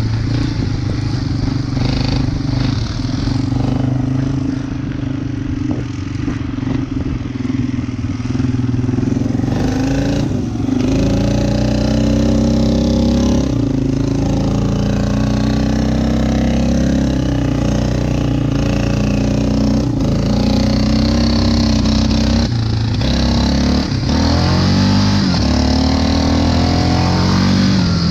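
Yamaha Wolverine ATV engine running under way, its pitch rising and falling as the throttle changes, climbing steeply near the end.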